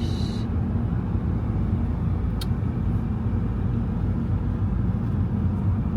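Steady low rumble of a car's engine and tyres on the road, heard from inside the cabin while driving. One short click about two and a half seconds in.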